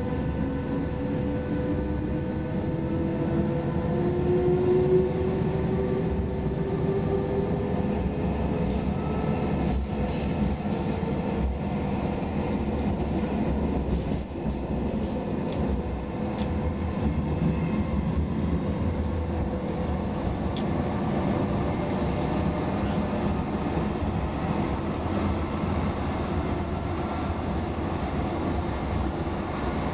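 Roslagsbanan X10p electric train heard from inside the carriage as it pulls away and picks up speed: a motor whine rising in pitch over the first several seconds, then the steady rumble of wheels running on the rails.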